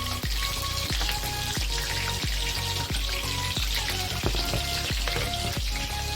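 Chicken lollipops deep-frying in hot oil, a steady sizzle. Background music with a steady beat plays over it.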